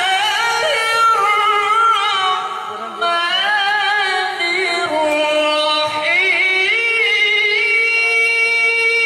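A qari's solo voice reciting the Quran in melodic tajwid style, with long ornamented phrases in a high register, settling near the end into a long held note.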